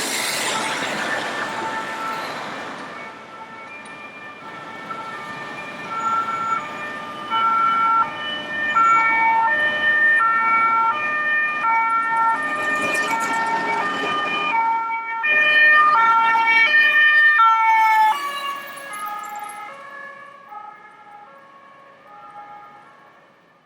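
Fire engine's two-tone siren alternating between a high and a low note about once a second, growing louder as it approaches. Around 18 seconds in its pitch drops as it passes, and it fades away. A rushing noise of traffic is heard at the start.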